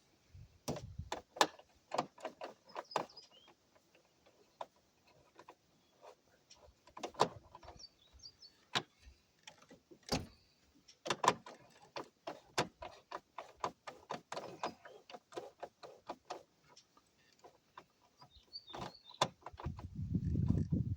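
Irregular clicks and light knocks of small plastic and metal parts being handled and pried, as a truck's instrument cluster is taken apart. There is a brief low rumble near the end.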